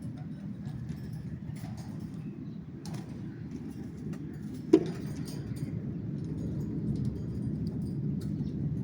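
Steady low hum with scattered light clicks and scratches, and one sharp knock about five seconds in.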